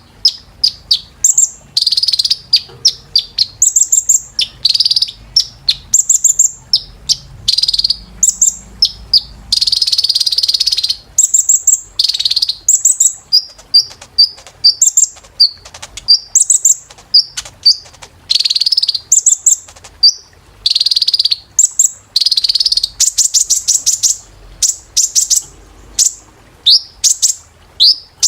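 Kolibri ninja sunbird singing: a loud, unbroken run of quick high-pitched chirps and downward-slurred notes, broken by short buzzy trills.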